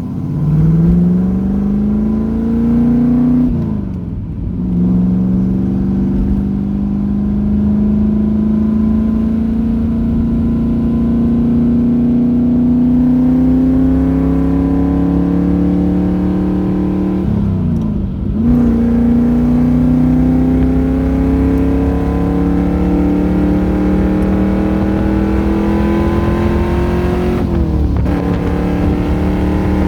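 C3 Corvette V8 engine accelerating while driving, its pitch climbing slowly with gear changes about four seconds in, near the middle, and near the end.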